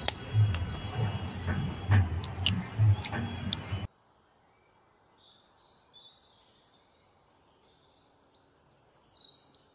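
Small birds chirping in quick repeated falling notes, over low thumps and a few sharp clicks of handling. About four seconds in the sound drops abruptly to faint birdsong, which grows a little louder near the end.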